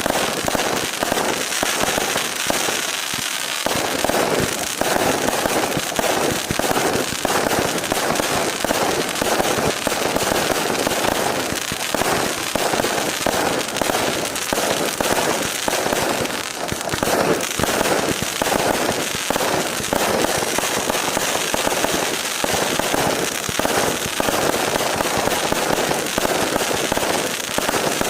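A 1200-shot, 0.6-inch multi-shot fireworks cake firing rapidly: a dense, unbroken stream of pops and crackles at a steady level.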